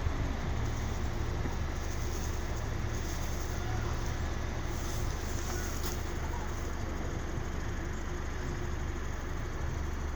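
Car running, a steady low drone of engine and road noise.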